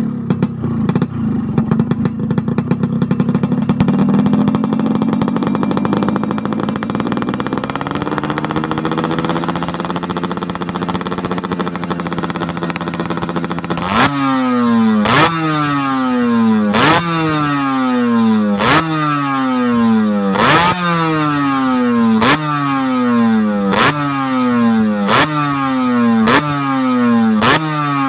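Yamaha RX100 single-cylinder two-stroke engine running steadily, its pitch climbing a little partway through. About halfway in it changes to repeated quick throttle blips, roughly one a second, each revving up sharply and falling back.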